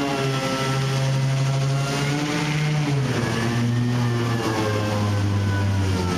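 Ingersoll Rand dual-action (DA) sander running on a truck body panel, a pitched motor whine over sanding hiss, its pitch wavering up and down as it is pressed and eased.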